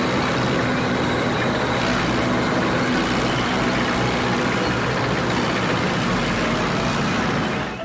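Heavy construction-vehicle engine running steadily, an even, dense rumble that cuts off at the very end.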